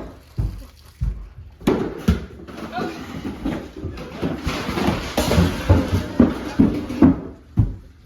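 Irregular knocks and clatter of household objects toppling one after another in a homemade domino chain reaction, with voices exclaiming now and then.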